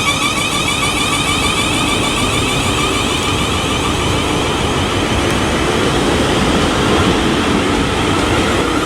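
Class 450 and Class 444 Siemens Desiro electric multiple units pulling out of the platform, loud rolling noise with an electric whine of many tones from the traction equipment as the train gathers speed.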